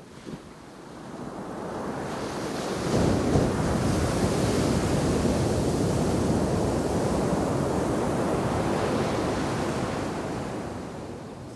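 A shore-break wave crashing on a sand beach: the rush of surf builds over the first few seconds, holds, then fades away near the end.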